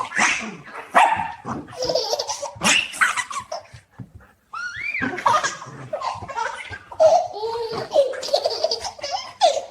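A baby laughing in repeated bursts, with a puppy's voice mixed in and a short pause about four seconds in.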